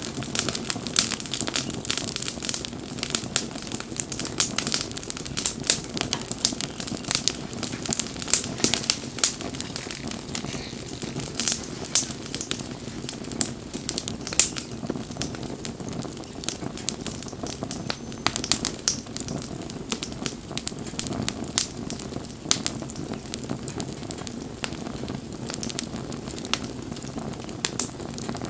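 Wood bonfire crackling: a dense run of sharp pops and snaps over a low, steady rush of burning. The pops come thickest in the first half and thin out somewhat later.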